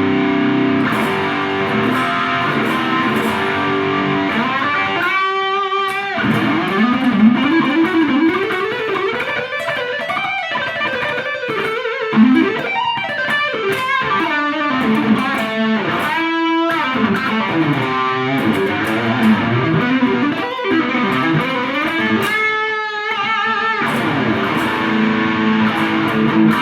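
Electric guitar played through an Abeid Custom Mid Gain distortion pedal with its gain at about half, into a small amplifier: continuous distorted riffs and chords, with three high held notes with a wavering pitch about a fifth, two thirds and seven eighths of the way through.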